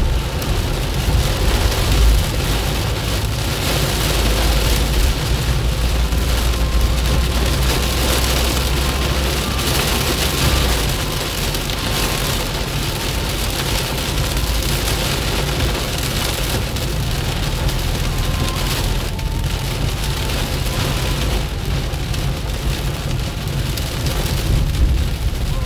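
Heavy rain drumming on a car's roof and windshield, heard from inside the moving car, with a low road rumble underneath that eases about ten seconds in.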